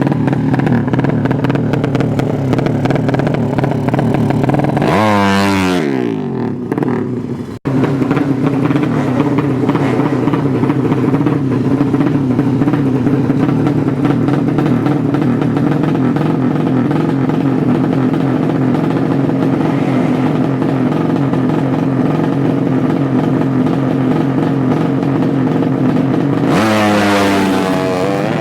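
Drag-racing motorcycle engines running at high revs with a steady, held note. About five seconds in and again near the end, an engine note sweeps sharply down in pitch.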